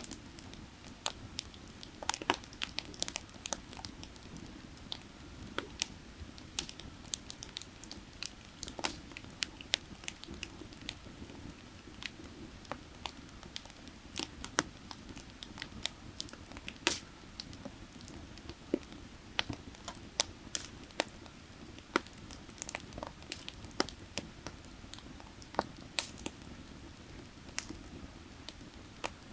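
Burning firewood crackling, with sharp irregular pops several times a second, over the steady low rush of a creek.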